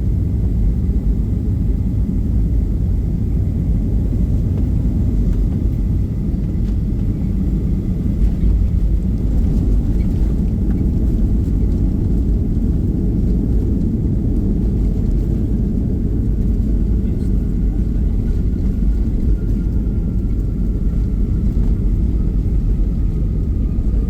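Boeing 737-800 heard from inside the cabin: a steady low rumble of airframe and CFM56 engine noise. A faint engine whine slowly falls in pitch near the end.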